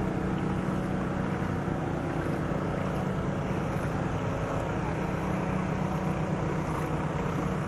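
A vehicle engine running steadily: a constant low hum under an even hiss, with no change in level.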